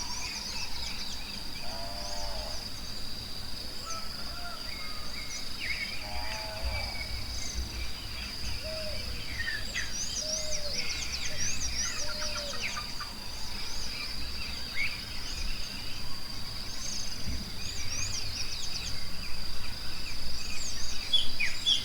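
Forest ambience: a steady high insect drone with many birds chirping and whistling throughout, and two lower calls from an animal about 2 and 6 seconds in.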